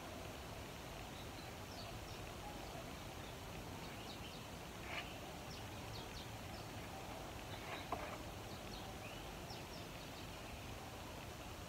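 Faint outdoor background: a steady hiss with scattered short, high bird chirps. Two short, slightly louder sounds come about five and eight seconds in.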